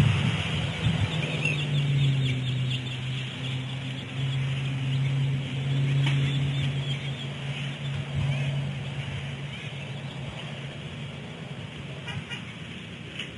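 A low, steady engine hum from a motor vehicle, which fades out after about nine seconds. Faint, short, high bird chirps sound over it.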